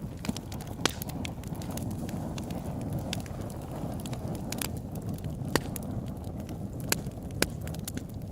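Open-air wood campfire burning with a steady low rumble of flames and frequent sharp crackles and pops, a few louder snaps standing out.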